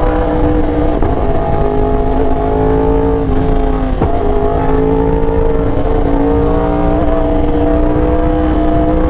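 Yamaha R1 crossplane inline-four with SC Project exhaust running steadily under way, its note slowly climbing in pitch. There are short breaks in the note about one, three and four seconds in.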